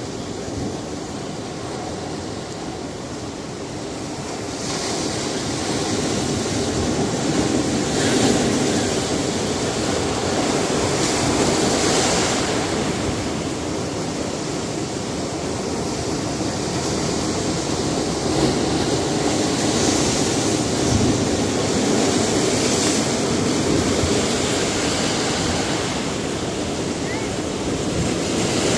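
Sea surf on a rocky shore: a continuous rush of breaking water that grows louder about four seconds in, then swells and falls as waves surge in every few seconds.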